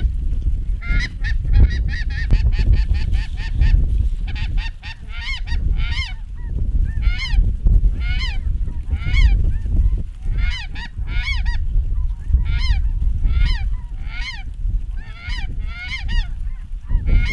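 Snow geese calling, a steady run of short, high, yelping honks repeated several times a second, crowding together for a few seconds near the start. A heavy rumble of wind on the microphone runs underneath.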